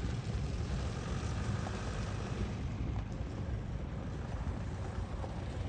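Low, steady rumble of a departing diesel-hauled freight train, slowly fading.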